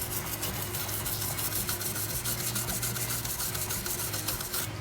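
A hand brush scrubbing the rust-stained stainless steel bars of a bird cage in quick, even back-and-forth strokes, working the yellow rust stain off. The scrubbing stops near the end.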